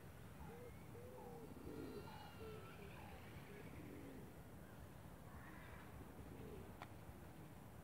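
Faint birds calling, many short calls overlapping throughout, over a low wind rumble, with a single sharp click near the end.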